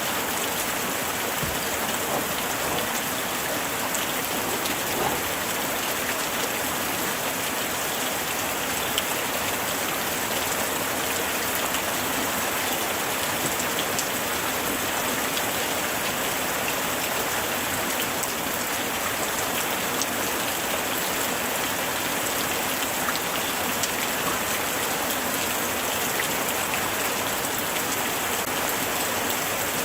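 Steady light rain falling, a constant hiss of drops with many small individual drop ticks on surfaces.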